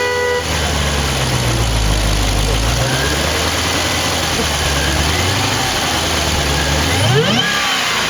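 Jeep Grand Cherokee Trackhawk's supercharged 6.2-litre Hemi V8 idling steadily, then revved once, quickly, about seven seconds in, the engine note and the supercharger whine rising together and falling back to idle. A brief beep sounds at the very start.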